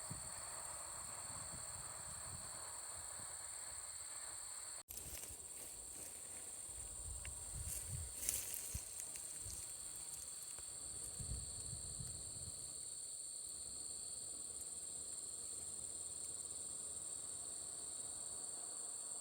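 Insects chorusing outdoors: a steady, high-pitched trill with no pause. A few faint low thumps come around the middle.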